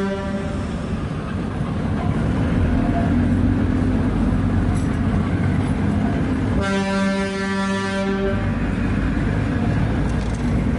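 Darjeeling Himalayan Railway narrow-gauge toy train coaches rolling past with a steady rumble and rattle. The train's horn cuts off just as the clip begins and sounds again about seven seconds in, one blast of about a second and a half.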